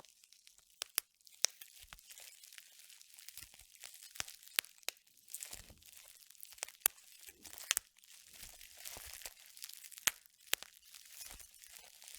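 Bubble wrap being popped by hand: about a dozen sharp pops at irregular intervals, with the plastic crinkling between them.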